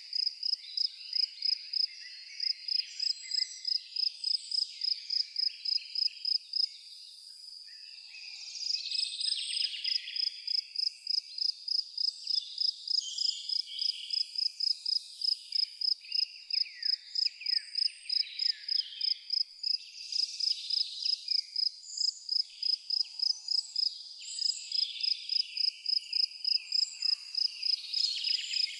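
A cricket chirping in a fast, even pulse, pausing for about a second some seven seconds in, over many birds singing short chirps and trills.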